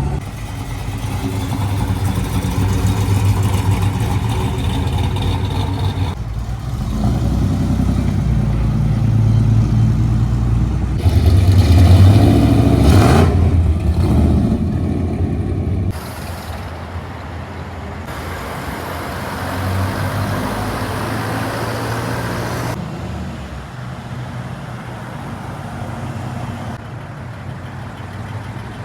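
Classic car engines running, heard in a series of short clips cut together. The loudest clip, about twelve seconds in, rises and then falls in pitch.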